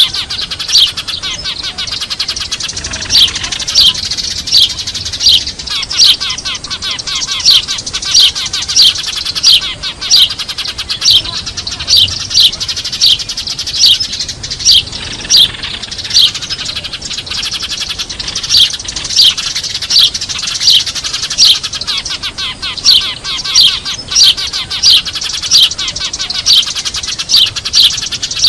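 Eurasian tree sparrows chirping noisily in a lure recording: a busy flock chatter with louder single chirps repeating about once a second.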